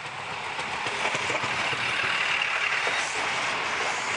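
Train moving along the rails at a station platform: a steady rush of wheel-on-rail noise that swells to a peak about two to three seconds in, then eases off, with a few faint clicks.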